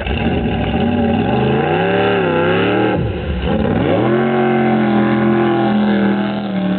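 1977 jet boat's 468 big-block Chevy V8 engine revving: the pitch climbs about a second in, wavers, drops sharply near three seconds, then climbs back and holds steady at high revs.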